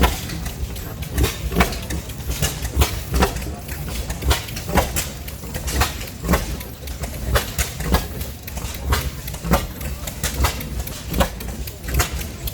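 Several old oilfield engines running at once. Their firing strokes come as sharp pops and knocks, several a second, over a low rumble, and the different engines' beats overlap irregularly.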